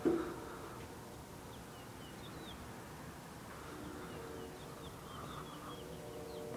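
Small birds chirping faintly, in two short runs of quick high chirps, over a steady low hum. A brief knock right at the start is the loudest sound.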